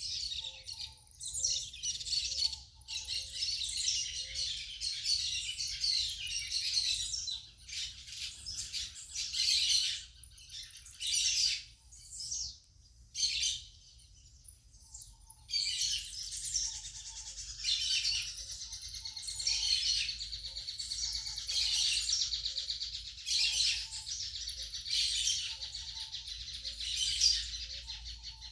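Several birds chirping and singing at once in dense, overlapping trills and calls, with a brief lull about halfway through. A fainter, lower note repeats about once a second underneath.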